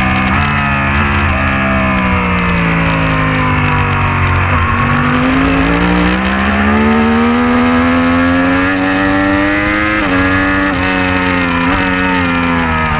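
Racing motorcycle engine at high revs. The pitch drops over the first four seconds or so, with a few quick blips as it shifts down, then climbs steadily under acceleration. Near the end come several quick breaks at gear changes, over a steady low rumble.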